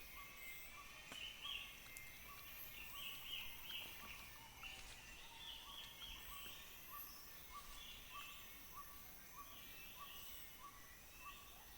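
Tropical rainforest ambience: birds calling over a steady hum of insects, with one short note repeated at an even pace, a little under twice a second.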